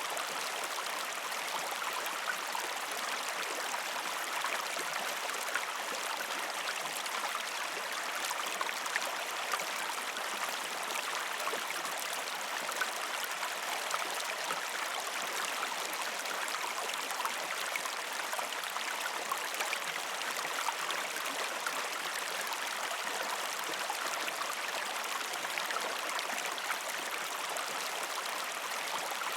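Shallow river stream flowing over rocks: a steady rush of water with many small splashes and trickles.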